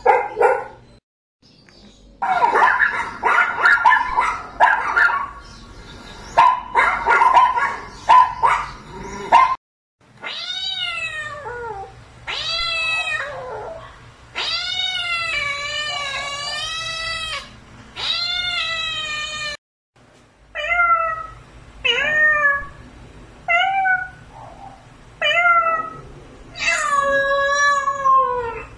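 Domestic cats meowing: several seconds of rough, noisy yowls first, then a series of long, drawn-out meows, a run of short meows, and one long meow near the end.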